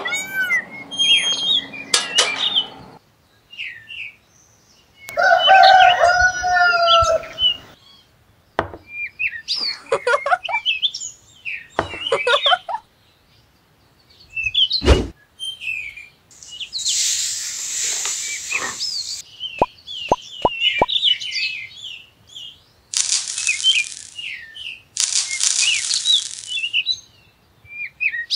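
Short bird chirps and calls in scattered groups, with quiet gaps between them. A few bursts of hiss and some sharp clicks come in the second half.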